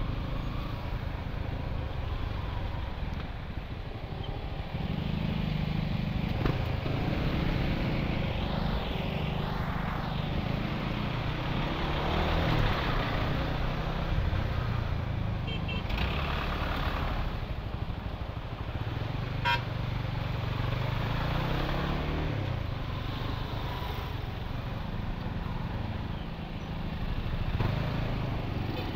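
Honda Winner X's 150 cc single-cylinder engine running through a hollowed-out stock exhaust while riding in traffic, its engine speed rising and easing several times.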